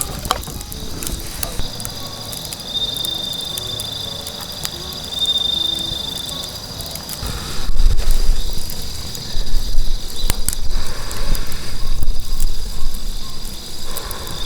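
Insects trilling steadily in a high, even tone, with scattered crackling clicks from a campfire. From about halfway, loud bursts of low rumbling come and go over it.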